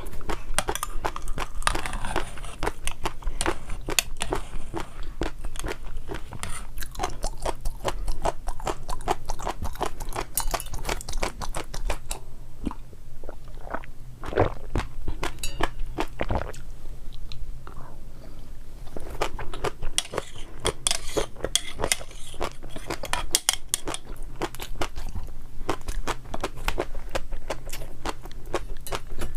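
Close-miked chewing of crunchy food: a dense run of crisp crunches and crackles, pausing briefly twice, over a faint steady low hum.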